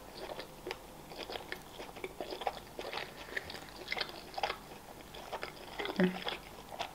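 Close-miked chewing of pizza with the mouth closed: irregular soft wet clicks and light crunches of crust. About six seconds in comes a brief low hum from the throat.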